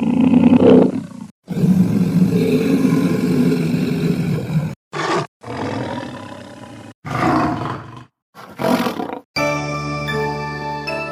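A run of short stock cartoon sound effects played one after another with brief silences between: several animal roar and growl effects, then, about nine seconds in, a sustained ringing musical chime effect.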